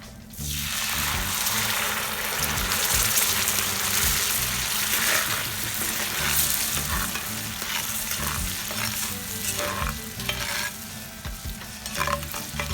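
Tomato sauce frying and sizzling in a pan over a campfire, the sizzle starting suddenly just after the start, with a few light knocks of stirring later on.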